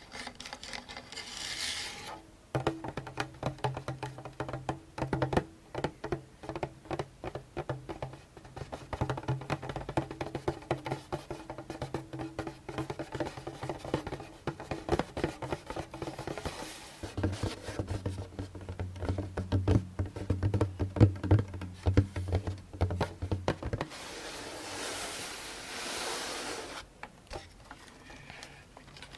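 Djembe drum head tapped fast and lightly, with the drum's low tone ringing under the taps; the tone drops lower partway through. Near the end the tapping stops and gives way to a few seconds of scratching or rubbing on the drum.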